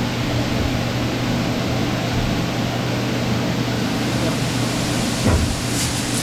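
Dust-collection blower running steadily, an even rushing noise over a constant hum, with a single thump about five seconds in.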